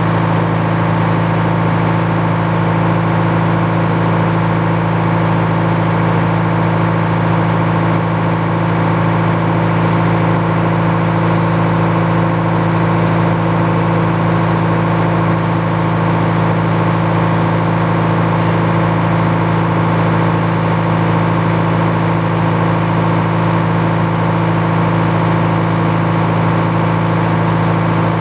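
Engine powering an old Frick sawmill, running steadily at constant speed with no change in pitch or load.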